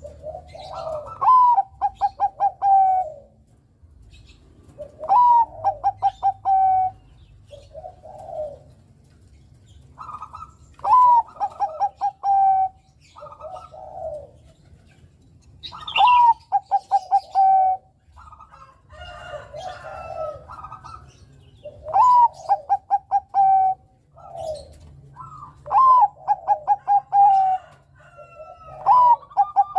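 Zebra dove (Bangkok-type perkutut) singing its cooing song, the phrase repeated about every five seconds. Each phrase is a low coo, a higher rising note, then a quick run of about eight short staccato coos and a short closing coo.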